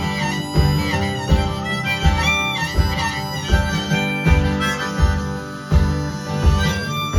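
Instrumental break in a live folk song: harmonica playing a melody over strummed acoustic guitar, with a low beat about every three quarters of a second.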